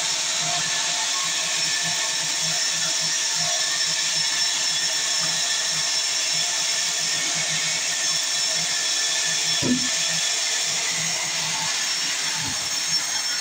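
Sawmill saw running steadily with a continuous high hiss, and a brief knock about ten seconds in.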